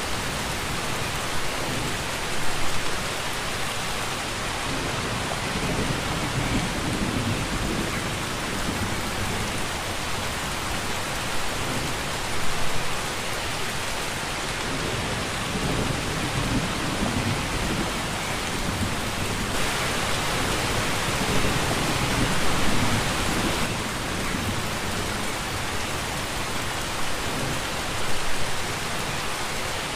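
Steady, heavy rainfall, with low rumbles of thunder swelling up every several seconds. The downpour gets heavier for a few seconds past the middle.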